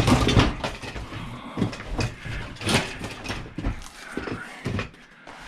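Hand tools knocking and scraping on an old 12V battery charger as it is taken apart, a run of irregular clanks and scrapes.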